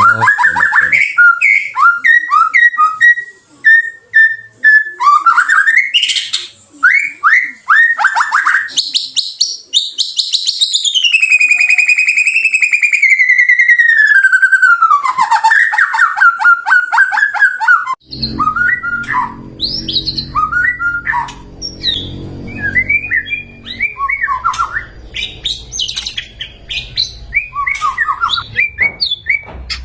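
White-rumped shama singing a loud, varied song of quick repeated whistled notes, with a long rolling trill in the middle that glides downward in pitch. A low rumbling background noise comes in about two-thirds of the way through.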